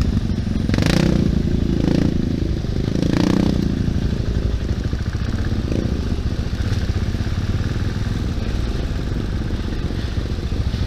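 Bristol Classic 400i motorcycle's engine running steadily on the move, with two louder rushing swells about one and three seconds in.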